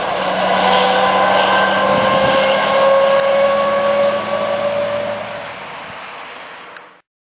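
Heavy truck's diesel engine pulling away, its pitch rising slowly as it accelerates, then fading off into the distance. The sound cuts off abruptly near the end.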